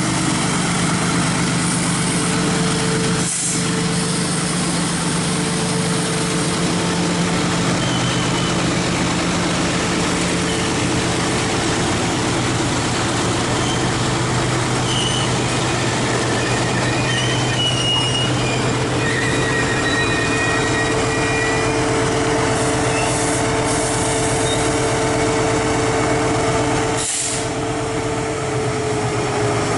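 Freight train in motion: diesel locomotive engines running steadily over the rumble of rolling rail cars. Thin metallic wheel squeal from the rails comes and goes in the middle.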